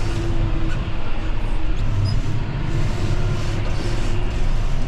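John Deere 6145R tractor's diesel engine running steadily under load while its front blade pushes deep snow.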